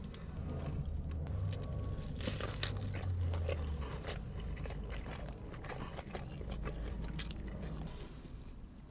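A person biting and chewing food close to the microphone, with frequent short crunches and clicks.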